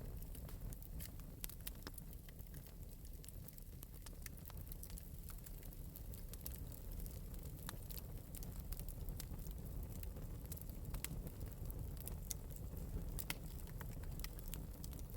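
Wood fire in an open metal fireplace crackling: irregular sharp pops and snaps, a few a second, over a steady low rumble.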